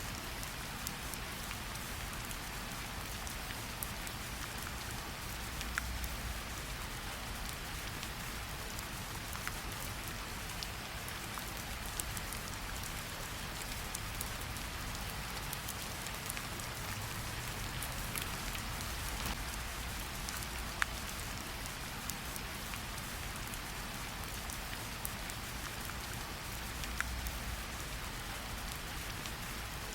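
Steady rain falling, with scattered sharp drips standing out and a low rumble that swells now and then.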